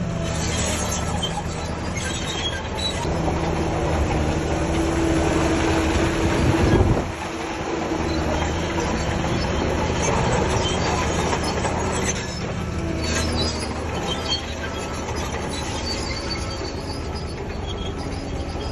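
Crawler bulldozer's diesel engine working under load, with the steel tracks squealing and clattering. The engine note climbs to a peak and drops off sharply about seven seconds in.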